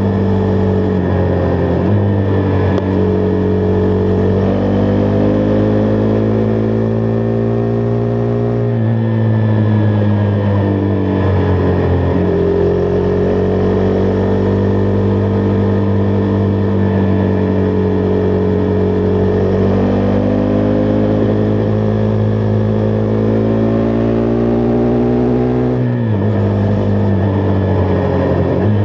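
Husqvarna Vitpilen 401's single-cylinder engine running under way. Its pitch climbs slowly with the throttle and drops sharply at gear changes, about a third of the way in and again near the end.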